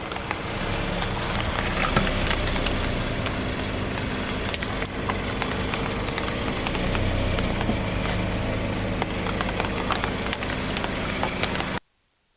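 Car engine running low and steady while objects crunch and crack under its tyres, with many sharp snaps and splintering crackles. The sound cuts off suddenly near the end.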